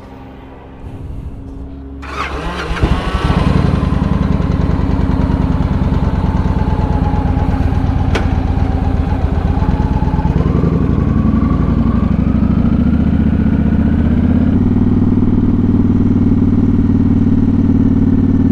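Motorcycle engine started about two seconds in, catching and settling into a steady idle.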